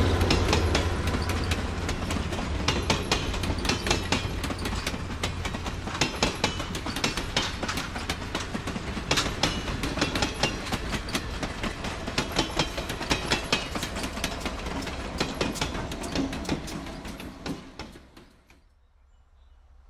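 Cape Cod Central dinner train's passenger cars rolling past: a steady rumble with repeated wheel clicks over the rail joints, fading as the train moves away, until the sound cuts off near the end. A low engine hum from the diesel locomotive is strongest at the start.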